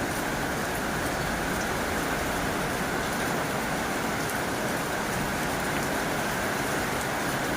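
Heavy rain falling steadily on a tin roof, an even, unbroken wash of noise.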